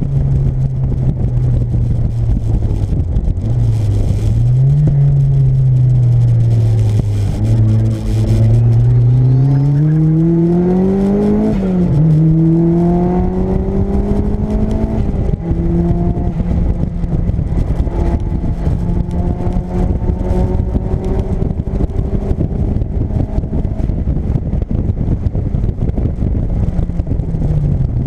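Turbocharged Mazda MX-5's four-cylinder engine heard from inside the cabin under load. Its note climbs with the revs, drops sharply about twelve seconds in as a gear is changed, then holds fairly steady, over constant rushing road and wind noise.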